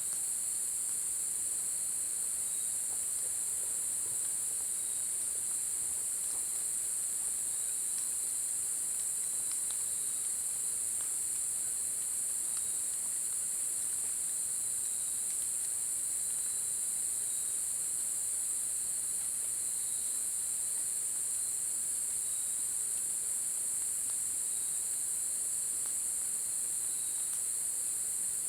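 Insects, crickets or similar, trilling without a break in a steady, high-pitched chorus. A second, lower insect call pulses about every two and a half seconds, and faint scattered ticks sound now and then.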